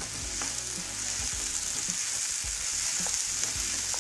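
Chopped onions, tomatoes and cashews sizzling steadily in oil in a frying pan, stirred with a wooden spatula that gives scattered soft taps and scrapes against the pan.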